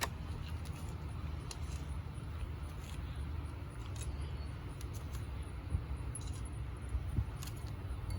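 Faint scattered clicks and light taps of cutlets and serving things being set out on a plate, over a steady low hum.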